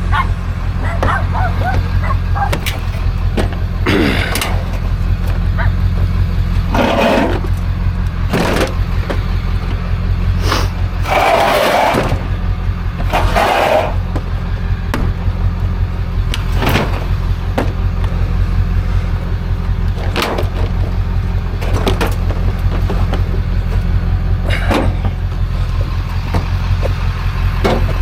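A vehicle engine running steadily with a low hum. About a dozen knocks and scrapes are spread over it, the longest and loudest a scrape near the middle.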